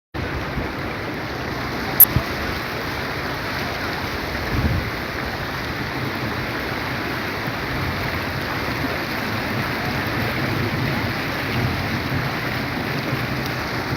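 Floodwater rushing down a street after heavy rain, a steady unbroken noise of flowing water. A sharp click about two seconds in and a brief low thump a little later.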